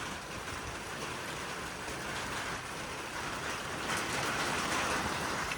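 Wind-driven heavy rain falling steadily, an even hiss that grows a little louder near the end.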